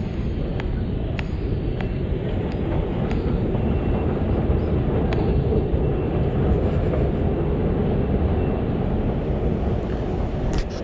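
Steady low rumble of a deep underground station's air and machinery, with footsteps clicking at walking pace, about one every 0.6 s, for the first three seconds or so, then only a few scattered taps, and a sharp knock near the end.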